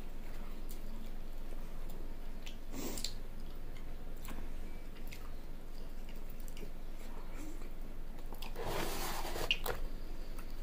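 Close-up mouth sounds of someone biting and chewing a slice of cheese pizza: soft smacking with scattered small clicks, and a louder noisy burst of about a second near the end.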